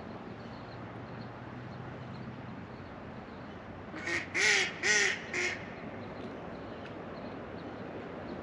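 A duck quacking four times in quick succession about four seconds in, the middle two quacks loudest, over the steady rush of the river.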